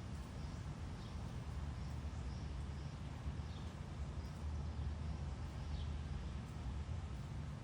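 Faint, short, falling bird chirps every second or so over a steady low outdoor rumble.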